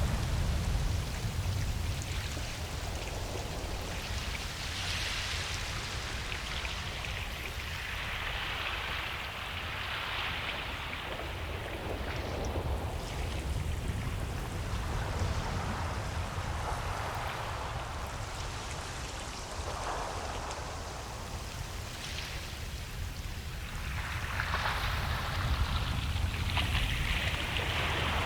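Ocean waves washing onto a beach: a steady hiss of surf that swells up several times as waves break and run in, over a constant low rumble.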